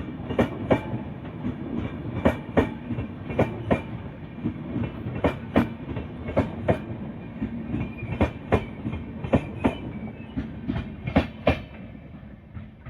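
Passenger train coaches rolling past, wheels clicking over rail joints in close pairs (clickety-clack) over a steady rumble, the pairs coming about once a second; the sound fades near the end as the train moves away.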